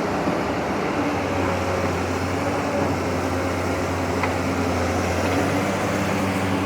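Long-arm excavator's diesel engine running steadily, a low even drone that rises a little in pitch about a second in.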